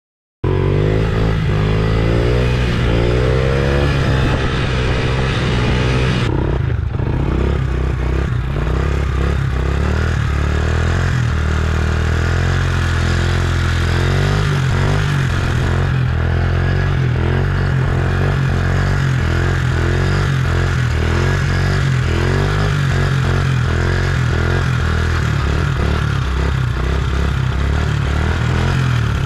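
Dirt bike engines running and revving through a string of clips, with sudden changes in the sound about six seconds in and again near the middle.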